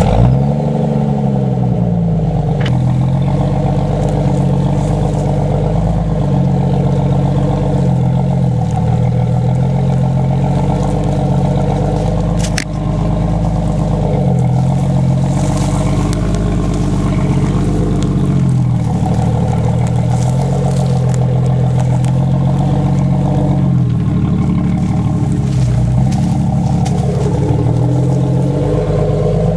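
Off-road Jeep's engine running under load, its pitch rising and falling again and again as the throttle is worked. A single knock comes about halfway through.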